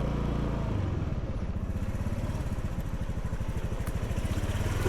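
Small motor scooter engine running steadily under the rider, a fast even putter, its note shifting slightly about a second in. The rider has just said it is sounding a bit off and wonders whether it is running hot.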